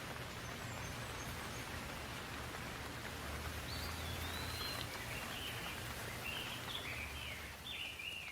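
Steady rain falling. From about halfway through, a bird calls in a series of short chirps.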